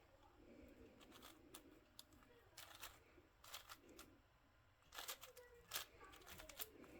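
Plastic twisty-puzzle cube being turned by hand: irregular quick clicks and clacks as its layers snap round, several of them close together about a second apart.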